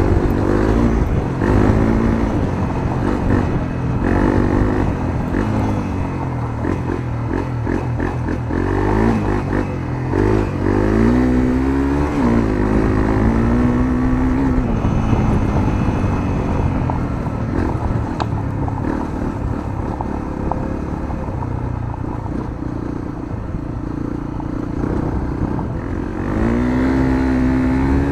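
Honda CRF250L's single-cylinder four-stroke engine, fitted with a Moriwaki aftermarket muffler, heard onboard while riding. The engine note climbs and falls again and again as the rider accelerates, shifts and backs off. There is a long climb about halfway through and another near the end.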